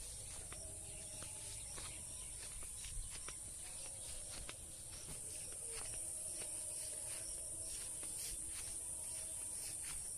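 Steady high-pitched buzz of an insect chorus in rural ambience, with scattered faint ticks.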